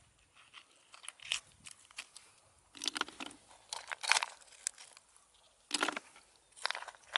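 Irregular crunching and crinkling noises in several short bursts, roughly a second or so apart.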